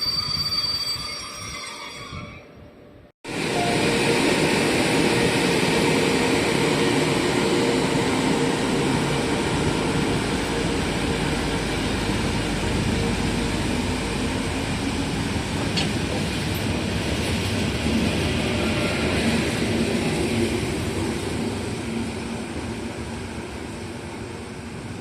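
Train passing close by: a loud, steady rush of wheels on rail that begins abruptly about three seconds in and slowly fades toward the end. Before it, a fading sound with a high ringing tone cuts off.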